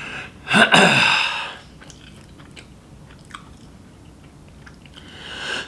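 Someone chewing a mouthful of chicken nuggets, with small scattered wet clicks. About half a second in, there is a short loud sound from the eater's voice.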